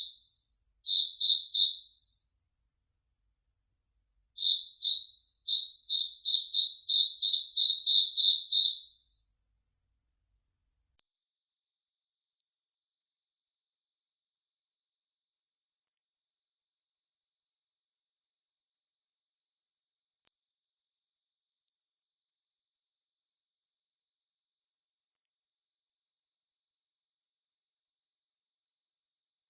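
Crickets stridulating. First come short pulsed chirps, singly and then in a run of about a dozen. After a brief pause, from about 11 seconds in, a higher-pitched, rapidly pulsing trill runs on without a break.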